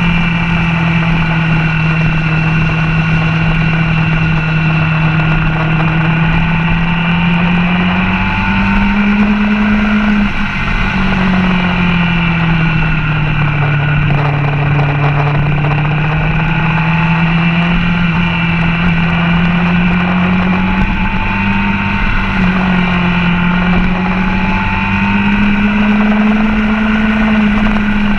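Motorcycle engine at track speed, heard from a camera mounted on the bike: the engine note climbs, breaks off sharply about ten seconds in, sinks to its lowest a few seconds later, then climbs steadily again with a small step near the end as the rider works the throttle and gears through the corners.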